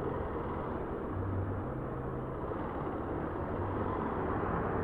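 Steady vehicle or road-traffic noise: a low hum under an even rushing haze.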